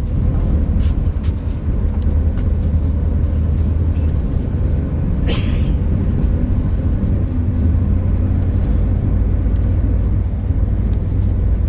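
Steady low rumble of a moving road vehicle heard from inside, with a short hiss about five seconds in.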